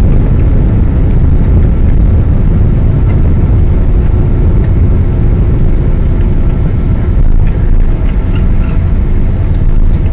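Inside the cabin of a Boeing 777-200 just after landing: a loud, steady low rumble of the engines and the airliner rolling along the runway.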